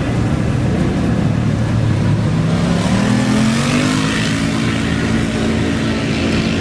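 Racing dirt bike or quad engine revving up as it pulls away, its pitch rising for a second or two from about halfway in and then holding steady, over steady engine noise.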